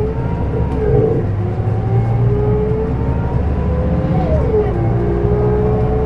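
Scania DC9 diesel engine of a 2007 Scania K270UB city bus running under load as it accelerates, its pitch climbing slowly and then dropping sharply about four seconds in as the ZF Ecomat automatic gearbox shifts up.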